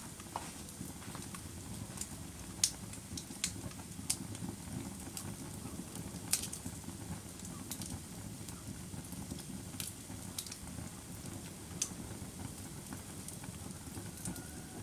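Wood fire crackling: sharp, irregular pops and snaps over a steady low rumble of burning.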